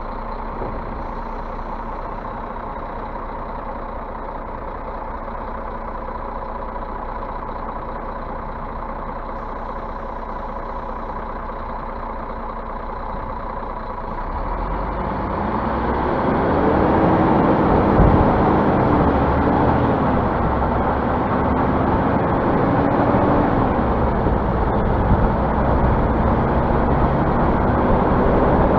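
Scania bus diesel engine idling steadily, then revved about halfway through: its pitch rises, holds, dips and rises again. The engine is being run to build up air pressure in a brake system that is short of air.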